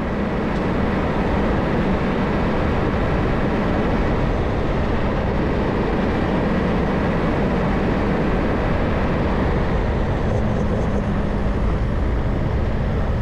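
Waterfall in flood after heavy rain: a steady, loud rush of falling water.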